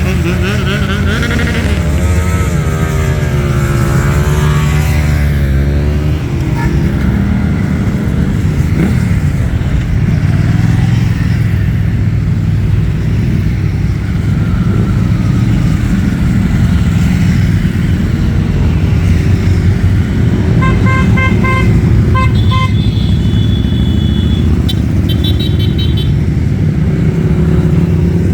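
Motorcycles in a group ride running together, engines rising and falling in pitch as they rev and pass. Around two-thirds of the way through, horns sound in a series of short toots and a brief held beep.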